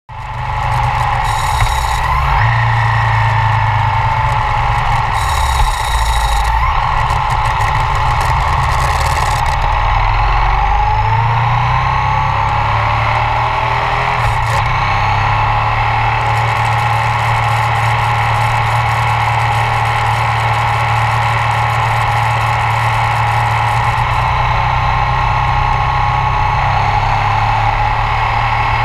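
Ducati ST4s V-twin engine running on the move, with wind and road noise. Its pitch rises and falls through the first dozen seconds as the bike accelerates, then holds steady at cruising speed.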